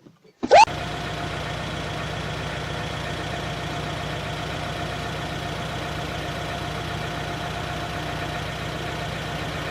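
A steady engine running at idle, an even hum that holds the same pitch throughout, starting just after a brief rising sound.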